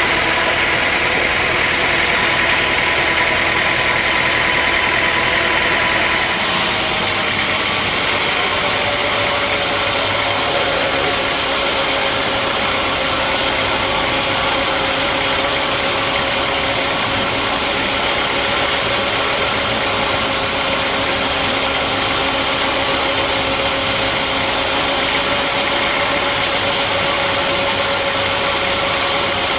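Sawmill machinery running steadily with a loud engine-like drone. A whine in it drops a little in pitch about six seconds in and then holds level.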